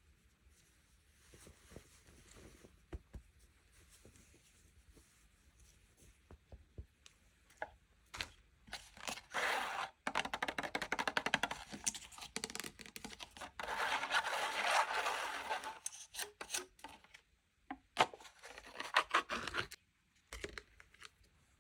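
Packaging being opened by hand: a few faint rustles and clicks, then long stretches of dense crackling and tearing from about nine seconds in, with a short pause before a last burst near the end.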